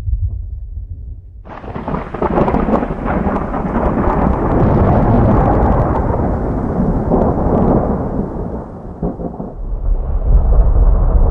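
Thunder: a low rumble, then about a second and a half in a sudden crackling thunderclap that rolls on for several seconds, giving way near the end to a deep rumble.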